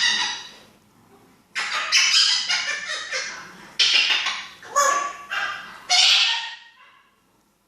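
African grey parrot vocalising in several loud bursts of squawks and speech-like calls.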